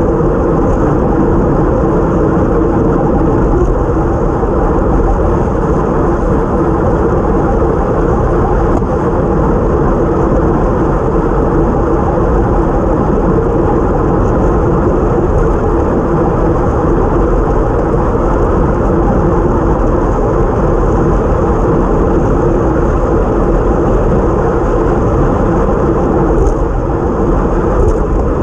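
Steady rush of wind buffeting a bike-mounted action camera's microphone at racing speed, with road noise from the bike.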